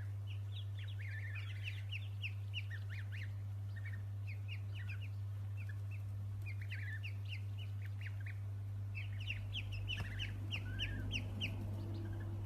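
Small birds chirping: many short, high chirps in quick clusters, busiest near the start and again near the end, over a steady low hum.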